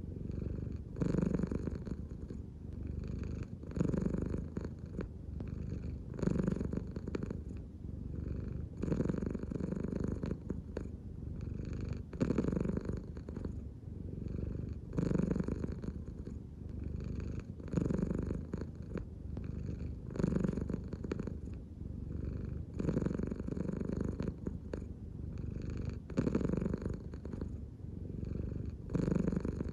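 An American Shorthair cat purring steadily, the purr swelling and easing with each breath about every two and a half to three seconds.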